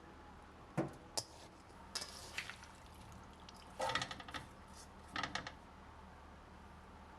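Dishes and food containers being handled in a kitchen: two sharp knocks, then three short bursts of clinking and clattering.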